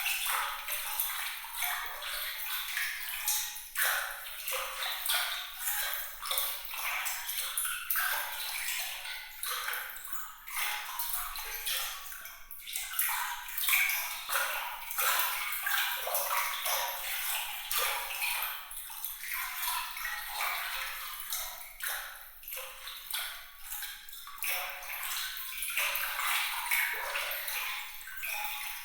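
Water trickling and splashing in a thin, bright, glittering stream of small drops and splashes, with no low rumble; its loudness rises and falls unevenly.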